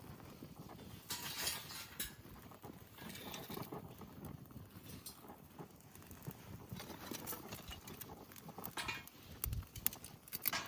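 Small wood fire crackling, with irregular sharp pops and clicks and a few brief louder swells.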